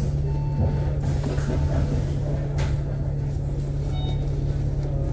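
Inside an Alexander Dennis Enviro500 MMC double-decker bus on the move: steady diesel engine hum with light rattles. There is one short electronic beep near the start and brief hisses about one and a half and two and a half seconds in.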